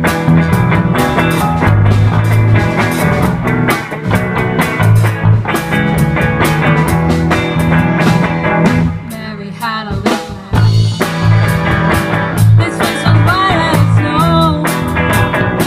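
Rock band playing, with drums keeping a steady beat over bass and guitar. About ten seconds in the music drops back for a moment, then a bending lead line comes in.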